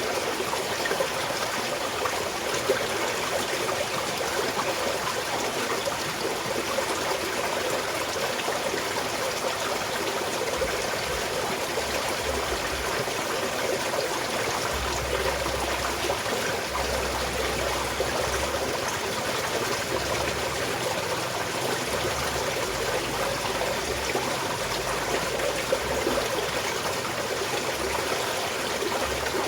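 Small mountain stream flowing steadily with a light trickle.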